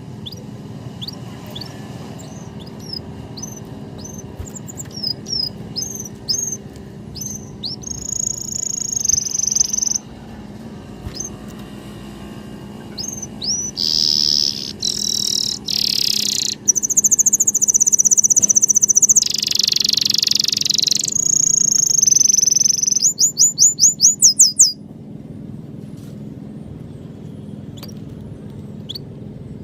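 Small birds chirping and calling: strings of short high chirps and a held whistle, a louder buzzy stretch in the middle, and a quick run of chirps that stops about 25 seconds in.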